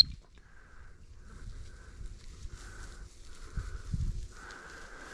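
Footsteps and the rustle of wet field cover as hunters move through it, with irregular soft thumps, the heaviest about three and a half seconds in.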